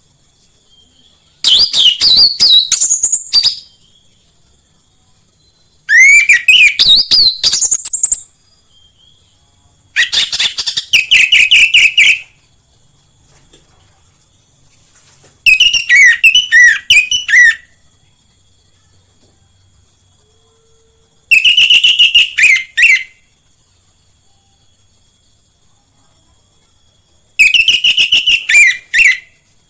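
Orange-headed thrush singing in six loud phrases of varied, fast whistled notes, each about two seconds long, with pauses of two to four seconds between them.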